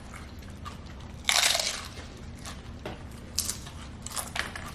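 A crunchy bite into a hard taco shell, one loud crunch about a second and a half in, followed by a few short crackling crunches of chewing near the end.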